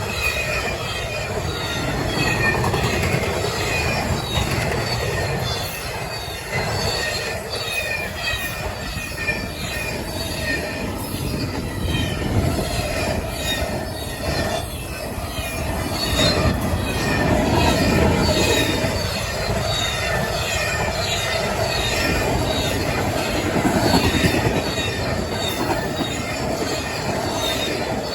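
CSX I010 intermodal freight train's cars rolling past fast on steel rails, a steady loud rumble of wheels on track with high-pitched wheel squeals and some clickety-clack at the rail joints.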